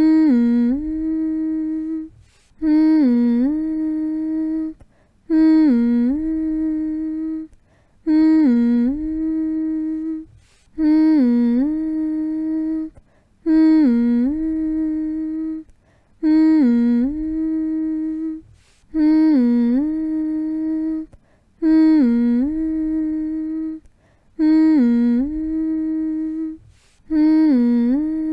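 A person humming to lull a baby to sleep, repeating the same short phrase about every two and a half seconds: each starts with a quick dip in pitch, holds one steady note, and is followed by a brief pause for breath.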